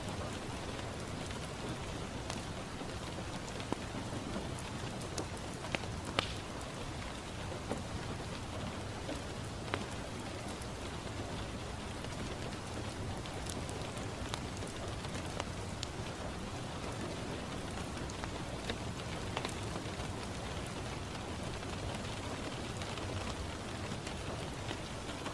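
Steady rain falling on a window, a continuous even hiss, with scattered sharp pops and clicks; a few stand out about 4, 6 and 10 seconds in.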